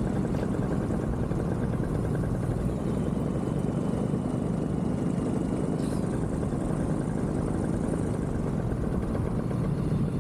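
Vittorazzi Moster 185 single-cylinder two-stroke paramotor engine and propeller running steadily in flight, at an even speed.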